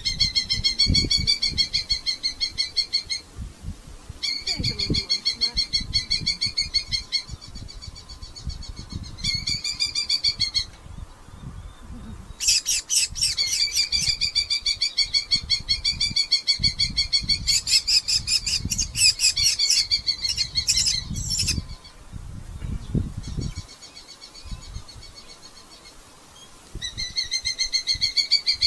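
Red-footed falcons calling in long, rapid chattering series of shrill notes, with short pauses. The calling is loudest and densest in the middle stretch, where more than one bird seems to call at once. Low knocks and rustling sound underneath.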